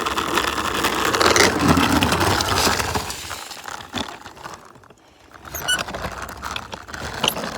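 Wheels of a Razor RipRider 360 drift trike skidding and rattling over pavement in a drift, loud for about three seconds and then fading away, with a few squeaks and clicks near the end.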